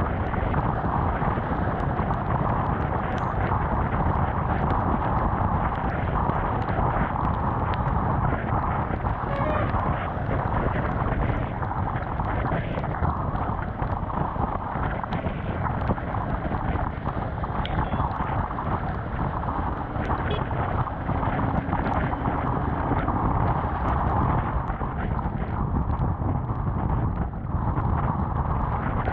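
Steady rush of wind and road noise on a GoPro mounted on a Honda CBR250R riding through rain, with the bike's single-cylinder engine running beneath and scattered faint ticks.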